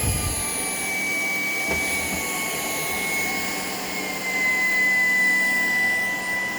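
Shark PowerDetect cordless vacuum running in eco mode: a steady high motor whine over the hiss of suction airflow. Its pitch drops slightly about four seconds in.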